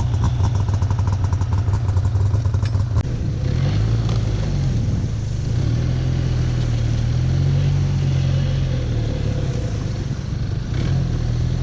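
Four-stroke snowmobile engine, an Arctic Cat Norseman 3000, idling with rapid even firing pulses. About three seconds in the sound changes and it runs under throttle, its pitch rising and falling as the sled moves through deep snow.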